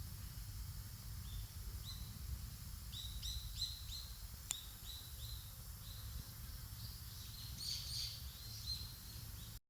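A small bird chirping, a run of short, repeated high chirps that grows busier toward the end, over a steady low rumble. A single sharp crackle sounds about four and a half seconds in, and everything cuts off abruptly just before the end.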